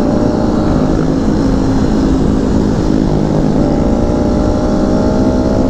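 Kawasaki Z125 Pro's 125 cc single-cylinder engine running at a steady pace while under way, heard from the rider's own bike.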